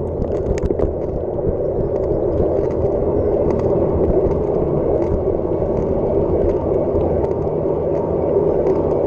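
Mountain bike rolling over rough ground: a steady rush of wind on the microphone over tyre rumble, with scattered clicks and rattles from the bike.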